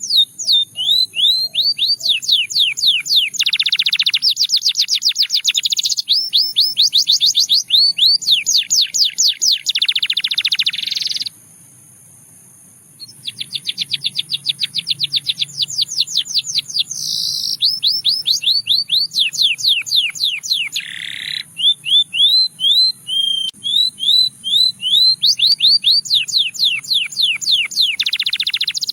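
Russian singing canary singing: fast trills of short repeated rising notes, one phrase running into the next, with a break of a second or two about eleven seconds in.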